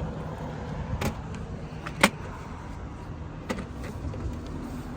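Steady low rumble of a vehicle, broken by a few sharp clicks or knocks, the loudest about two seconds in.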